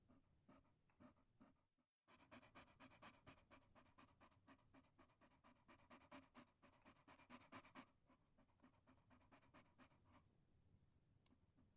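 Chihuahua panting in quick, even, faint breaths. The panting drops out briefly about two seconds in and fades near the end.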